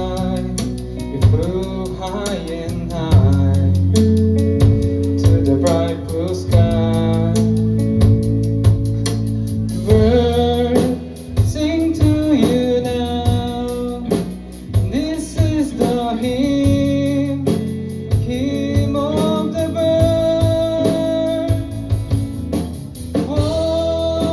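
Rock band playing live: a singer's voice over guitars, bass guitar and drum kit.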